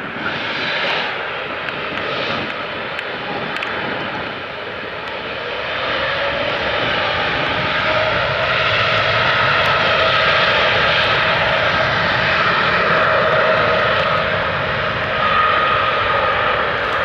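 Boeing 787-8 jet engines running at takeoff power, a loud dense noise with a steady fan whine that grows louder about six seconds in.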